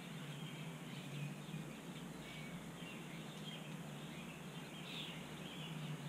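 Backyard birds chirping in short scattered calls over steady outdoor background noise, with a low steady hum underneath.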